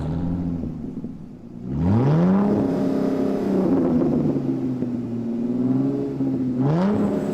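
Car engine revving: it runs low at first, climbs sharply in pitch about two seconds in and holds at high revs, then revs up again near the end.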